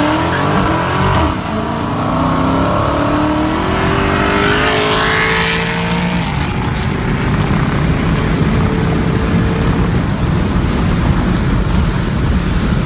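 Supercharged 6.2-litre Hemi V8 of a Dodge Challenger Hellcat accelerating at full throttle, its pitch climbing and breaking back at each upshift, with a high whine above it. About six seconds in the engine note falls away and steady wind and road noise take over.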